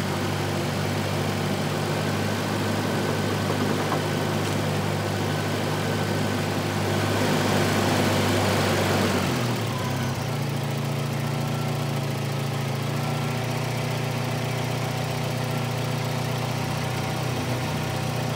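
Volvo 240's B230F four-cylinder engine idling steadily, the idle smoothed out now that the idle air control valve has been cleaned and refitted. About seven seconds in a rushing hiss swells and cuts off after two or three seconds, after which the idle settles at a slightly different pitch.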